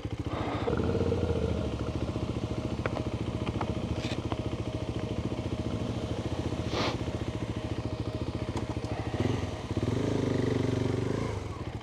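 Adventure motorcycle engine running at low speed over rough trail, its revs rising briefly about a second in and again about ten seconds in.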